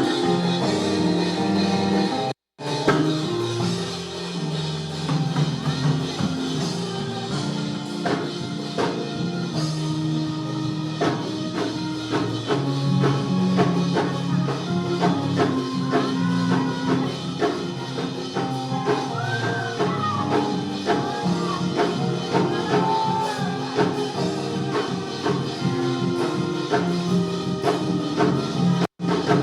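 Band music with a drum kit and percussion playing at a steady level. The sound cuts out for an instant twice, about two and a half seconds in and again near the end.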